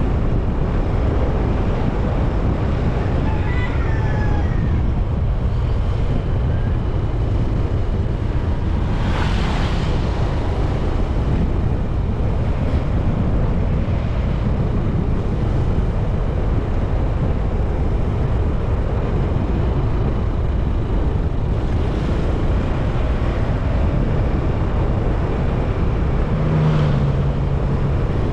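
Steady wind buffeting the microphone of a moving Honda TMX 125 motorcycle, with road and engine rumble underneath. There is a short hiss about nine seconds in and a brief low tone near the end.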